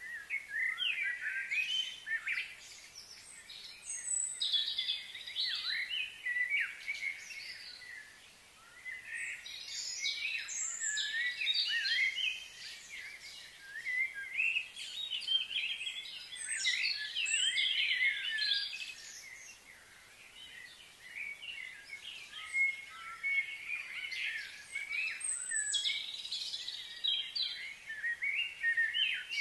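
Birds chirping and singing in bouts that come and go every few seconds.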